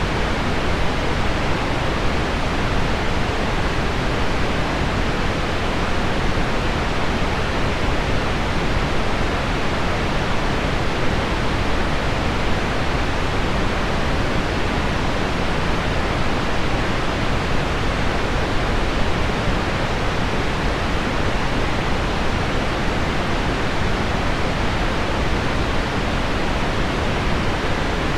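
Steady, deep pink noise mixed with heavy rain on window glass, an even rushing hiss with no separate drops standing out.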